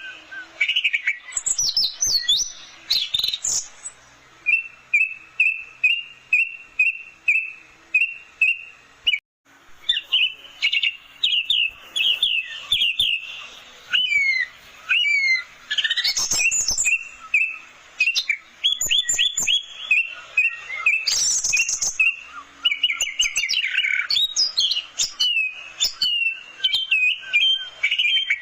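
Orange-headed thrush singing a fast, varied song of whistled and chattering phrases, including a run of evenly repeated notes at about two a second. The song cuts out briefly about nine seconds in.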